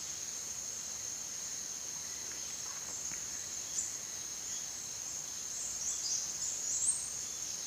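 Steady high-pitched forest insect chorus, with a few short rising chirps, likely birds, about six seconds in.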